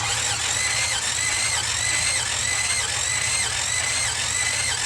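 Starter motor cranking the 1966 Buick Riviera GS V8 with a compression gauge in the number 4 cylinder. The starter's whine rises and drops about twice a second as the pistons come up on compression, and stops near the end.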